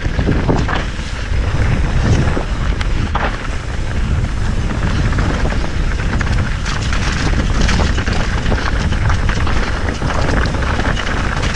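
Wind buffeting the microphone of a moving mountain bike on a dirt trail, with scattered knocks and rattles from the bike over rough ground.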